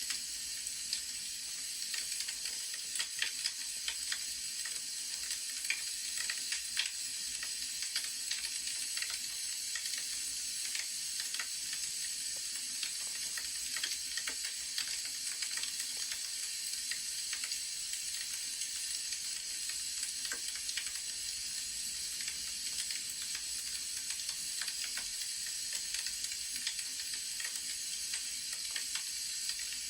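Wood fire crackling: a steady hiss with frequent sharp pops and snaps.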